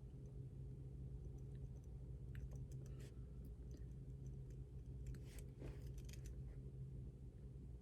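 Faint desk-work sounds of someone studying: scattered light clicks and a few short scratchy strokes, grouped about three seconds in and again past the middle. A steady low hum runs underneath.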